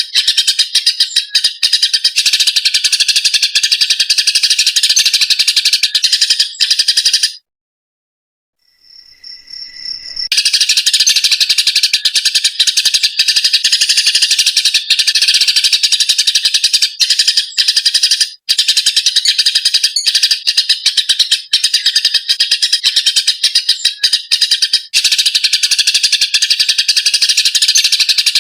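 Eurasian tree sparrows in a fighting bout, a dense, rapid, continuous chatter of loud chirps. The chatter stops dead about seven seconds in and resumes after about three seconds of silence.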